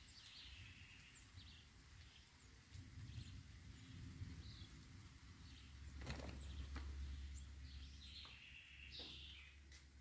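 Faint bird calls, several short chirps scattered through, over a quiet rural background; a low rumble swells about six seconds in.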